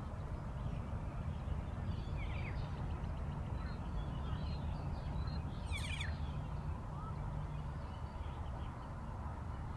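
Birds calling over a steady low rumble of outdoor ambience, with quick falling calls about two seconds and six seconds in and a few short chirps.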